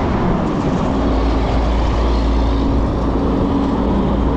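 Riding noise on an Ecotric 20-inch fat-tire e-bike under way: wind rushing over the microphone and the rolling hum of the fat tires, with a steady low hum setting in about half a second in.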